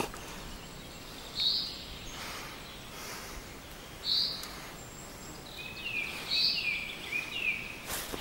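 Wild birds calling: a short high call repeated about every two to three seconds, and a quick run of falling chirps near the end.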